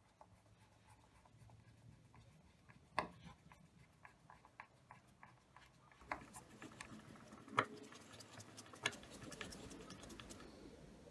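Quiet handling of tools and wood: scattered small clicks and taps, with three sharper knocks about three, seven and a half and nine seconds in.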